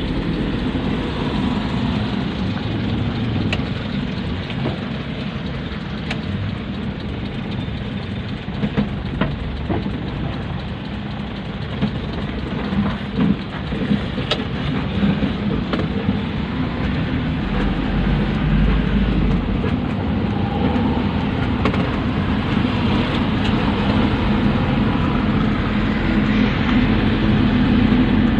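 Pick-up dump truck's engine running steadily, with a few sharp knocks or rattles partway through; it gets a little louder near the end.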